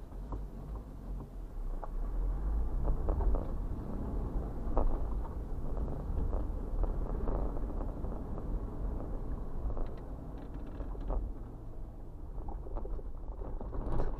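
Low rumble of a train rolling past, with scattered clanks and knocks.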